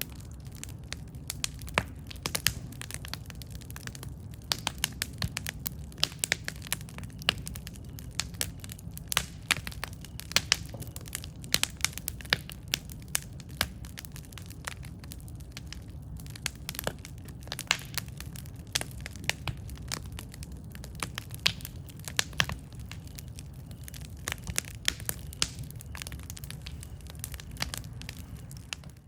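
Wood campfire burning, crackling and popping: many irregular sharp pops and snaps over a steady low rumble of the flames.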